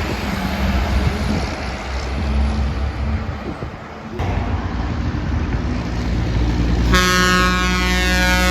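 Low rumble of passing truck traffic, then about seven seconds in a truck air horn sounds, several tones at once, its pitch sliding slightly down as the truck goes by.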